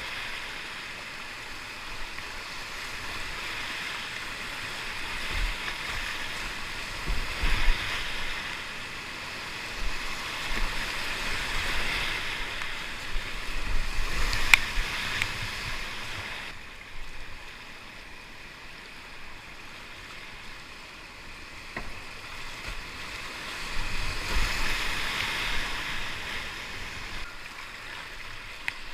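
Whitewater rapids rushing and splashing around a kayak, swelling louder in two stretches, with scattered low knocks and one sharp click in the middle.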